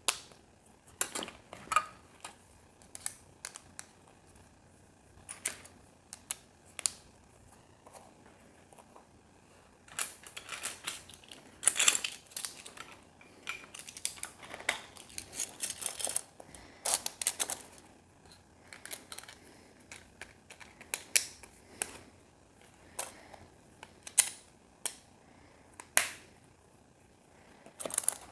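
Small plastic building pieces clicking, snapping and rattling at irregular intervals as they are picked from a pile and pressed together by hand.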